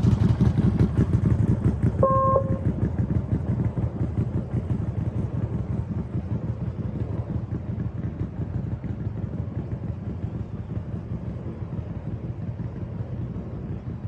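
Motorcycle engine running at low speed, a fast steady pulsing that slowly grows quieter. A short electronic beep sounds about two seconds in.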